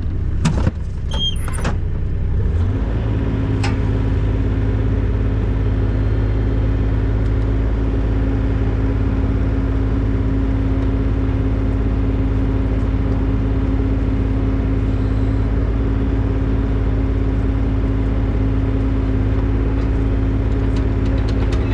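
Engine of a compact construction machine (skid steer or mini excavator class) running. A few metal clanks come in the first couple of seconds, and the engine speeds up to a higher steady pitch about two and a half seconds in, then holds there.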